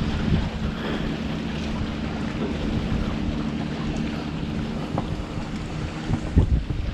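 Wind buffeting the microphone over a steady low motor hum, with a few stronger gusts near the end.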